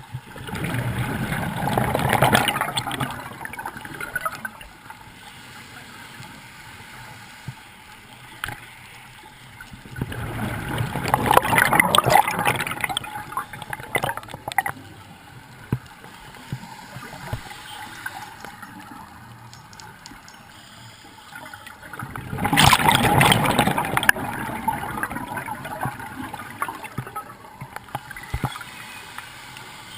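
Scuba diver's exhaled bubbles gurgling and rumbling out of the regulator in three loud surges, one every eleven seconds or so with each breath, with a fine underwater crackle between breaths.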